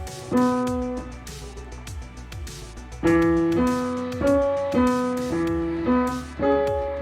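Piano or keyboard music. A chord is struck about a third of a second in, then from about three seconds in there is a run of chords changing roughly every half second. A soft steady beat and bass run underneath.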